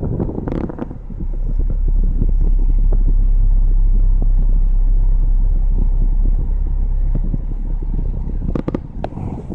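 Car engine running with a steady low rumble. The rumble swells about a second in and eases off near the end.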